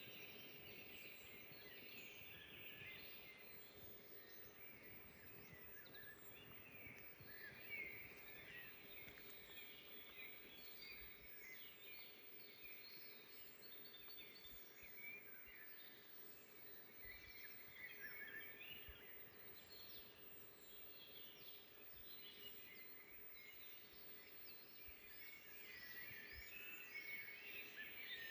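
Faint chorus of many small songbirds chirping and twittering in a forest, calls overlapping all the way through, over a soft steady hum.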